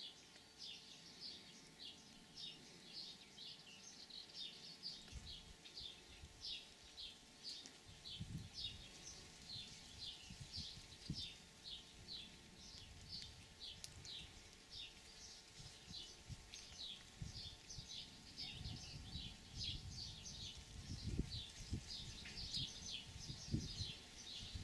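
Small bird chirping steadily: short, high, slightly falling notes, several a second. From about five seconds in, an irregular low rumble with occasional low thumps runs underneath and grows stronger toward the end.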